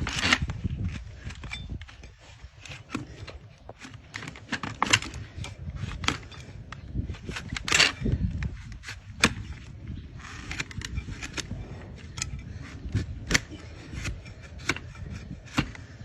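Sharp, irregular cracks and snaps of a hoof-trimming tool cutting through hard donkey hoof horn, about one or two a second, with a few louder snaps standing out.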